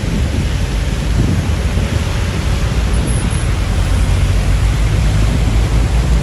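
Heavy truck's diesel engine running under way, a steady low rumble mixed with road and wind noise.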